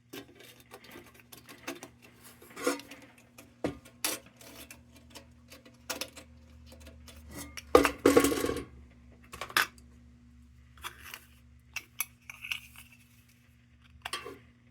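Metal lantern parts clinking and tapping as they are handled and fitted: scattered light clicks, with a louder clatter about eight seconds in.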